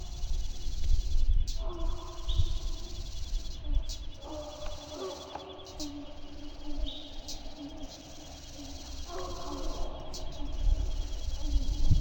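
Hunting hounds on a deer drive baying in long drawn-out howls, three in turn, over a steady high insect trill.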